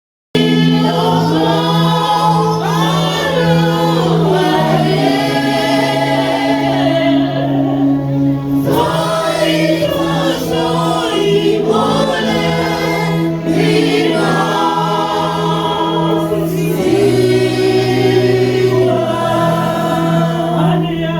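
Church choir singing a gospel hymn in harmony over steady held chords, cutting in suddenly just after the start.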